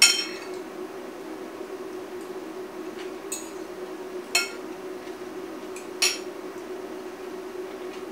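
Metal cutlery clinking against a ceramic bowl while eating: four light clinks, the first and loudest with a short ring, then about three, four and six seconds in. A steady low hum runs underneath.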